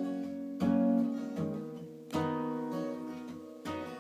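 Acoustic guitar playing the closing chords of a song: three strummed chords about one and a half seconds apart, each left to ring and fade.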